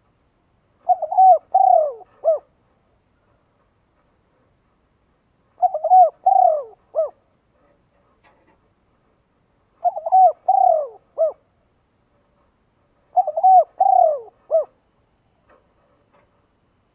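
A dove cooing: four phrases of a few quick notes each, repeated roughly every four seconds.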